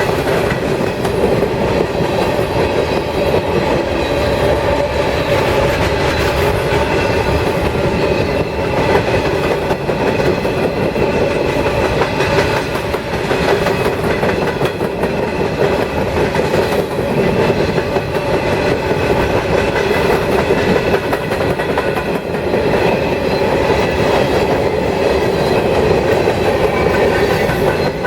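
CSX freight train rolling past at steady speed, its steel wheels clacking over the rail joints under a continuous rumble.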